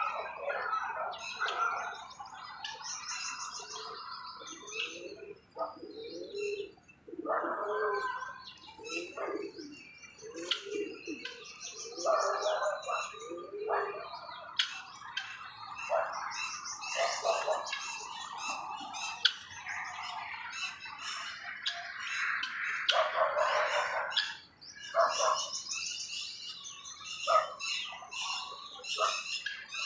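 Several birds calling over one another: high chirps and buzzy trills, harsher mid-pitched calls and short low-pitched calls, with no break.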